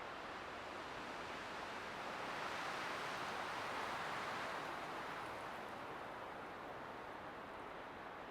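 Light wind blowing steadily, swelling into a gentle gust about three seconds in and easing off again.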